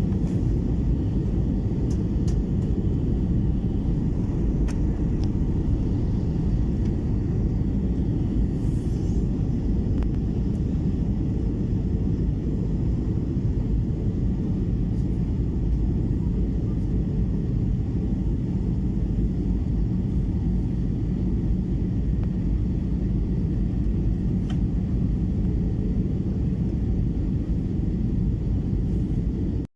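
Steady low rumble of a moving vehicle heard from inside, with a faint steady hum through it and an even level throughout.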